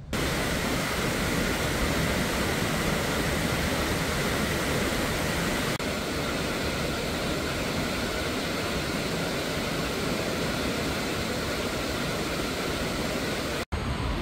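Heavy downpour of rain falling steadily on trees and grass, a dense, even hiss, hard enough that water has started to pool on the ground. It cuts off abruptly near the end.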